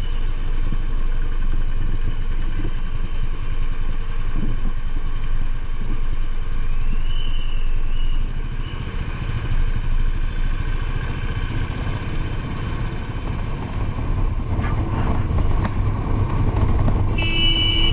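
Royal Enfield Bullet 500's single-cylinder engine running steadily while the motorcycle is ridden through town traffic. A short high-pitched tone sounds near the end.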